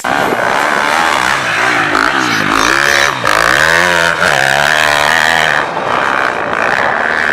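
Motocross bike engine being ridden hard, its revs rising and falling again and again as the rider works the throttle and gears.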